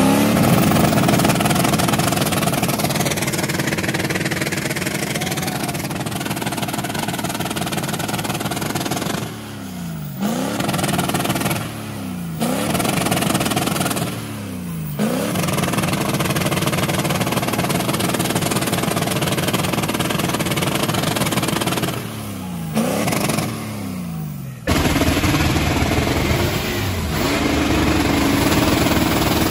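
Truck engine running under heavy throttle. The revs fall sharply and climb back several times, and the sound changes abruptly near the end.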